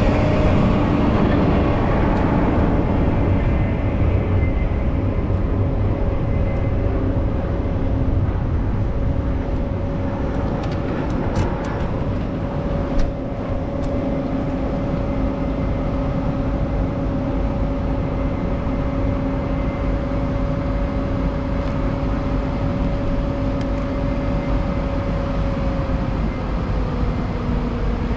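Steady vehicle noise: a low rumble under a held two-note hum that sags slightly in pitch near the end.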